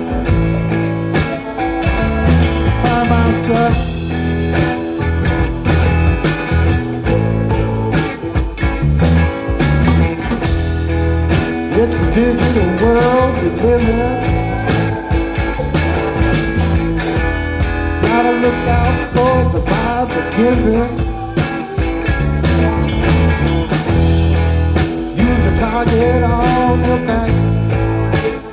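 Live rock band playing a bluesy, psychedelic jam: drums, bass and electric guitar, with the guitar playing bending lead lines in the second half.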